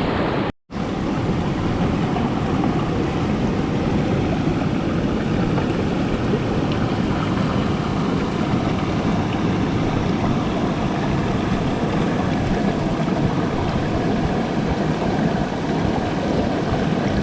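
Mountain stream water rushing steadily, a dense even wash of noise. It cuts out for an instant about half a second in.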